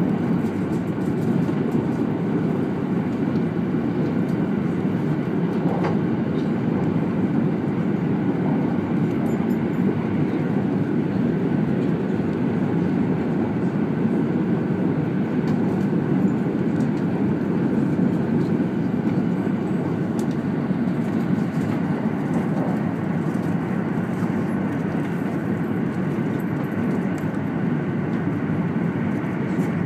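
200 series Shinkansen running along the line, heard inside the passenger cabin: a steady low rumble that holds even throughout.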